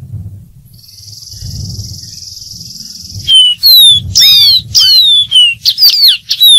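Dark-throated seedeater singing: a steady high hissing note, then about three seconds in a loud, fast run of clear whistled notes that slur downward, several of them in quick succession.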